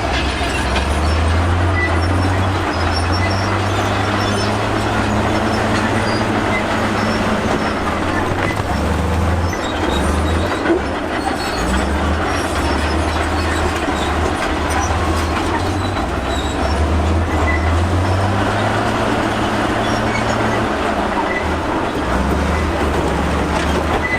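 Crawler bulldozer working in rock: a diesel engine running under varying load, with steel tracks clanking and squealing.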